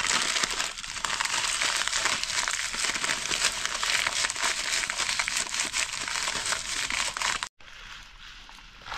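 Food sizzling and crackling in hot oil in a pan, a dense steady spitting sound that cuts off suddenly about seven and a half seconds in and then goes on more faintly.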